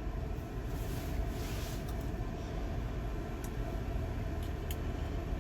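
Steady low engine rumble, like a vehicle idling, with a few faint clicks.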